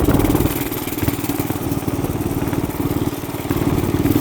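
Small 212cc single-cylinder four-stroke engine running steadily under way. It eases off a little in the middle and pulls harder again near the end.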